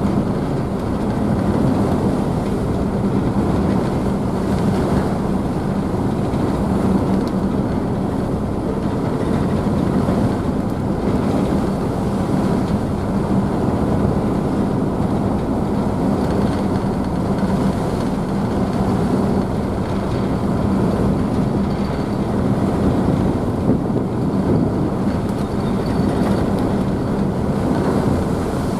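Ise Bay ferry's engines running with a steady low hum, heard from the rear deck over the constant rush of the wake and wave spray.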